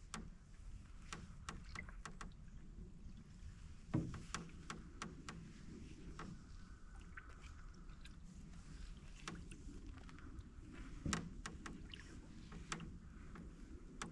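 A canoe being paddled: paddle strokes and dripping water with scattered clicks and creaks from the canoe's hull, and two louder knocks, one about four seconds in and one later on.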